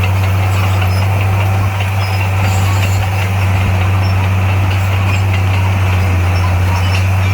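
Heavy construction machine's diesel engine running at a steady, unchanging speed, a constant low hum.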